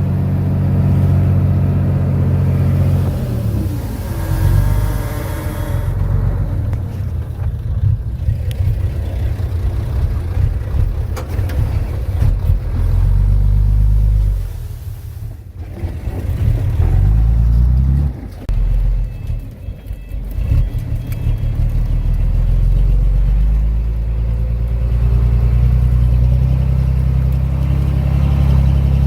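Komatsu D31P bulldozer's diesel engine working under load. Its note eases off briefly about halfway through and again a few seconds later, with some rises in pitch.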